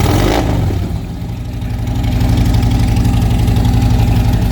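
Motorcycle engine running through Mutazu fishtail slip-on exhaust pipes with no baffles, a loud, deep, pulsing exhaust note. It eases off briefly about a second in and comes back up.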